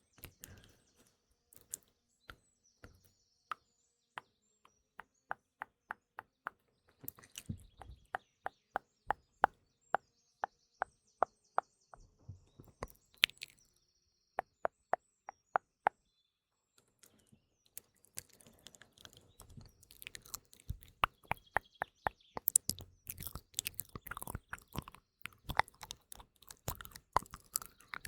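Close-miked ASMR mouth sounds: a run of crisp tongue clicks at about two a second in the middle, then dense wet, crackly mouth sounds toward the end. Faint birdsong plays underneath.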